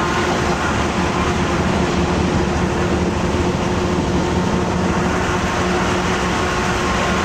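Diesel railcar running along the track, heard from inside the carriage: a steady drone of engine and running gear with a few constant hums over rumbling wheel noise.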